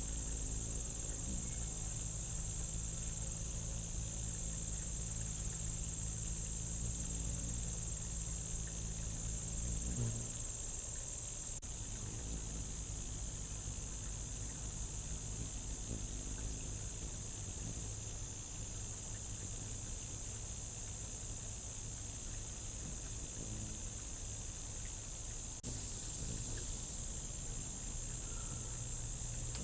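Steady, high-pitched insect trilling, with a higher buzzing layer that cuts in and out every second or two. A low hum sits underneath for the first ten seconds or so.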